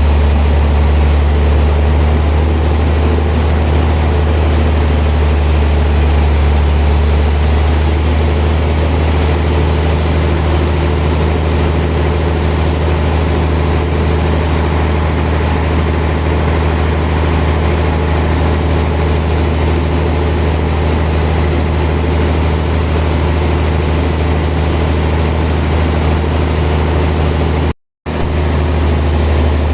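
Sawmill machinery running steadily with a strong low hum. The sound cuts out completely for a moment near the end.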